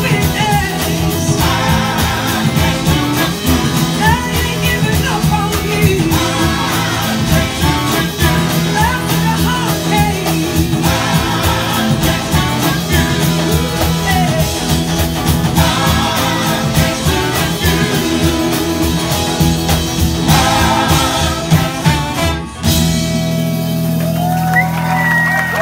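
Live rock band playing with singing and electric guitar. About three-quarters of the way through it breaks off sharply into a held final chord, with bending guitar notes over it as the song ends.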